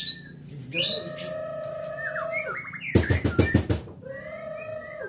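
White-rumped shama singing: long drawn-out whistled notes, broken by a quick rattling burst about three seconds in.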